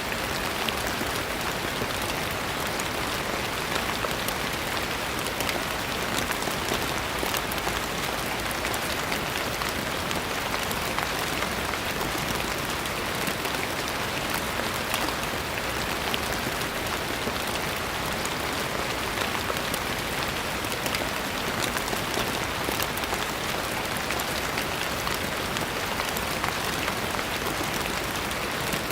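Steady rain falling on a surface, a constant even hiss with many fine drop patters throughout.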